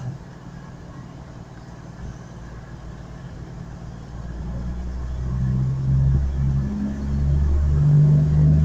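Class 221 Super Voyager diesel multiple unit's underfloor diesel engines powering up as the train pulls away, a low engine note that grows louder from about halfway through and shifts up and down in steps.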